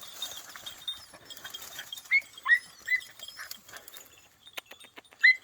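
Podenco puppies giving tongue while trailing a rabbit: short, high yelps, about three near the middle and another couple near the end, with a few sharp clicks in between.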